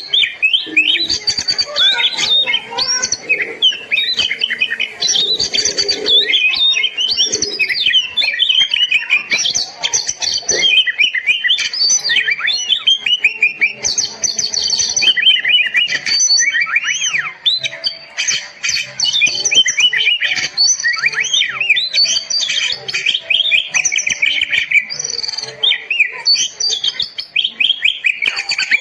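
Oriental magpie-robin (kacer) singing loudly and almost without pause in full 'gacor' song: a rapid, varied run of clear whistles, trills and quick sweeping notes.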